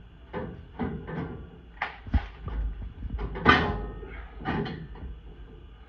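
Irregular metal clunks and knocks of hand tools working a stubborn exhaust bolt under a pickup truck, with one sharp click about two seconds in and a louder clank about halfway through.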